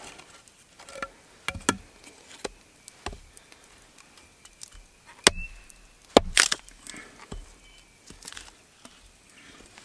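Campfire wood crackling, with irregular sharp pops and cracks and a louder cluster of cracks a little past the middle.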